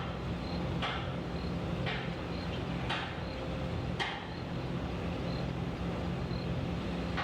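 A heavy engine runs steadily with a low drone. For the first four seconds it is joined by short, sharp hissing ticks about once a second, which then stop.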